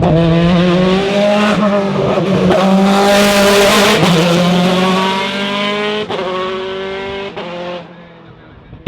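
Race car engine running hard at high, fairly steady revs as the car goes by close, loudest about three to four seconds in, then fading away near the end.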